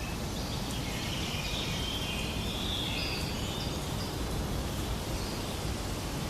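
Steady outdoor background noise with a few short bird calls over it, between about one and three and a half seconds in.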